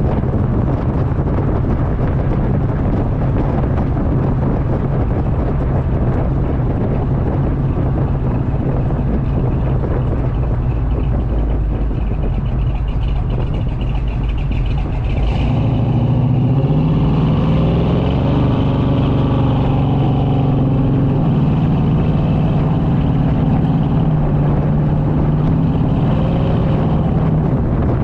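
Small-block Chevy 350 V8 in a C10 pickup running through a new 2.5-inch stainless exhaust with Flowmaster 40 series mufflers, a steady low exhaust note. About halfway through the note changes and climbs as the engine picks up revs, then holds steady.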